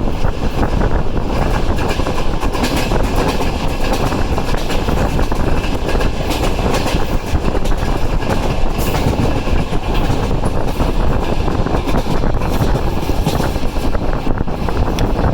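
Passenger train running along the track, its wheels clicking and clattering over the rails under a steady rushing noise, with wind buffeting the microphone.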